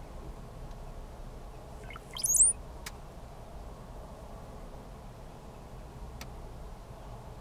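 Male brown-headed cowbird singing its spring display song once, about two seconds in: a few low gurgling notes sliding up into a thin, very high squeal. Two faint clicks follow.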